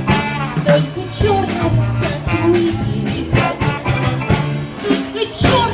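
A jazz band playing an upbeat, bouncy number, with bass, drum kit strikes and a voice among the instruments.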